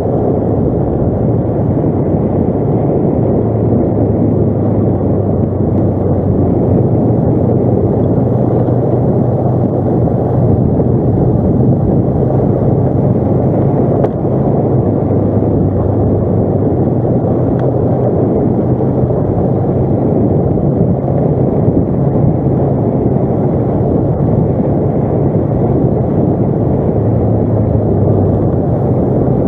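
ATV engine running steadily on a trail ride, a loud continuous drone whose pitch shifts slightly up and down with the throttle.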